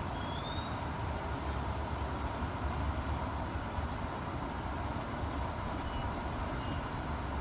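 Steady low outdoor rumble with a few faint, short, high bird chirps: one rising chirp just after the start and two brief notes about six seconds in.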